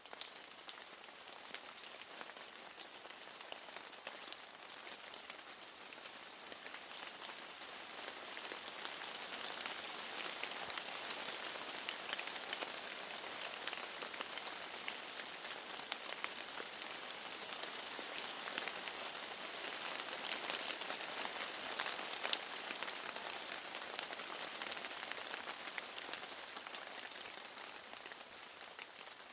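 Steady rain falling, with many small drops tapping against a window pane. It swells a little about a third of the way in and eases slightly near the end.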